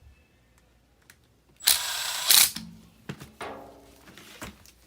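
Hand work on a furnace blower motor's mounting hardware: scattered light clicks and knocks, and a loud harsh burst of under a second about two seconds in.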